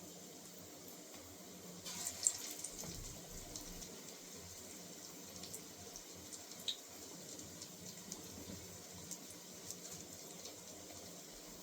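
Oil sizzling faintly in a pan as small potato-and-bread patties shallow-fry on low heat, with scattered crackles and a short cluster of louder clicks about two seconds in.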